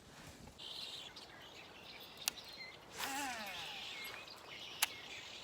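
Quiet outdoor ambience with a bird calling: a short call falling in pitch about three seconds in. Two sharp clicks, one a little past two seconds and one near the end.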